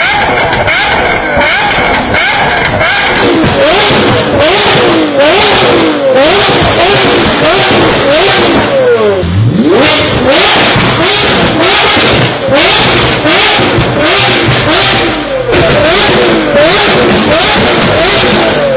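Lamborghini Aventador V12 revved again and again in quick blips, its pitch sweeping up and down, with sharp cracks between the revs. About nine seconds in the revs drop low and then climb in one long rise.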